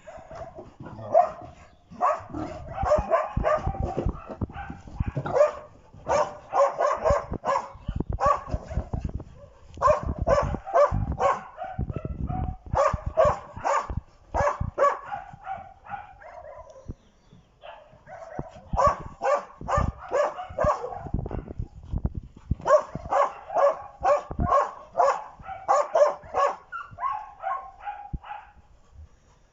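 A dog barking in fast volleys of several barks a second, with short pauses and a quieter stretch near the middle, and a couple of longer drawn-out cries between the volleys: a hunting dog barking excitedly during training.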